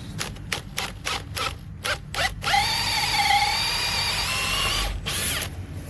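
A quick series of sharp clicks, then a Makita XPH07 brushless hammer drill running free for about two and a half seconds with a steady high whine that sags briefly in pitch before the trigger is released. A short burst of noise follows near the end.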